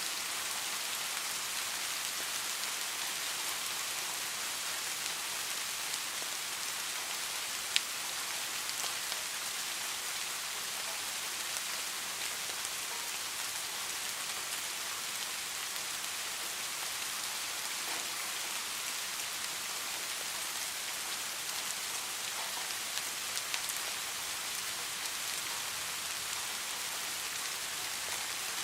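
Steady rain falling, an even hiss with occasional sharper drop ticks; one sharp tick stands out about eight seconds in.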